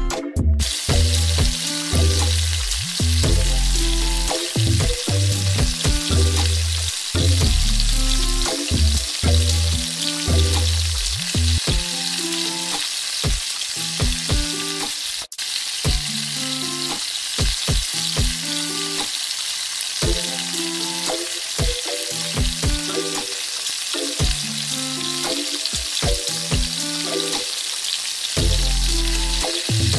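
Chopped ginger, onion and garlic sizzling in hot olive oil in a pan as they are sautéed and stirred with a spoon, a steady frying hiss. Background music with a repeating bass line plays under it.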